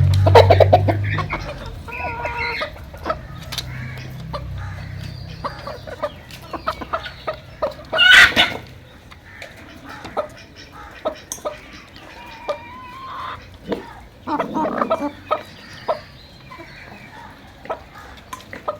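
Chickens clucking on and off, with one loud call about eight seconds in and many short taps and clicks between the calls. A low hum sounds under the first second or so.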